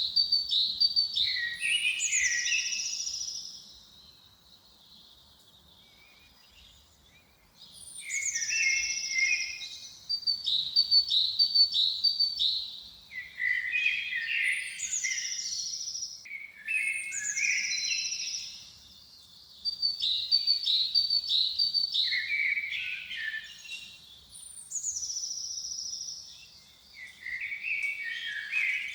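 A songbird singing the same complex phrase again and again, each about three seconds long: a run of quick high notes, a higher trill and lower warbled notes. There is a longer pause about four seconds in, and shorter breaks between the other phrases.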